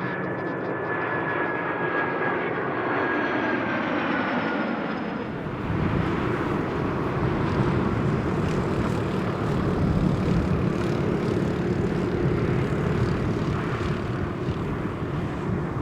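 Jet airliner's engines passing close overhead. A high whine falls slowly in pitch over the first few seconds, then gives way to a louder, deep, steady rumble.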